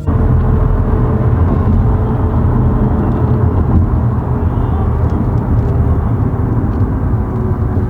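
Motor vehicle running along the road: a steady low engine and road rumble that cuts in suddenly at the start.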